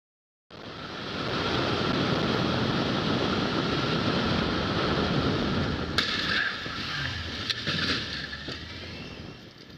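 Steady road and wind noise of a moving vehicle, starting abruptly half a second in, with a sharp click about six seconds in.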